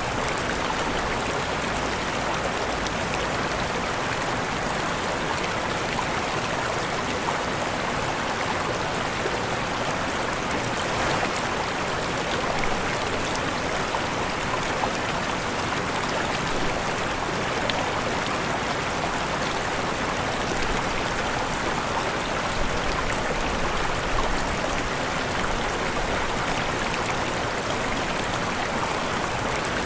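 Waterfall: steady rushing, splashing water with no change in level.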